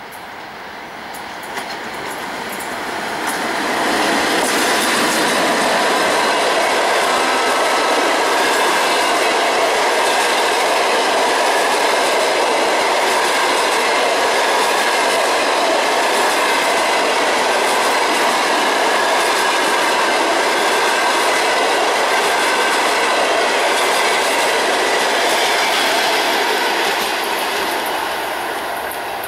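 Passenger train passing at close range, hauled by a ChS2K DC electric locomotive: the loud running noise of wheels on the rails builds over the first few seconds as the locomotive goes by. It stays steady while the coaches roll past and falls away near the end as the last coach passes.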